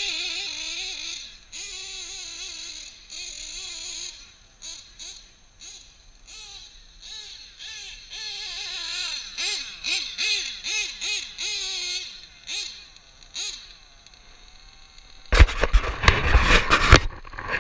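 Modified Novarossi .28 nitro engine of a 1/7 scale RC truggy running with a high, buzzing pitch that rises and falls with repeated throttle blips, then settles to a faint steady idle. About fifteen seconds in, a sudden loud rough noise takes over.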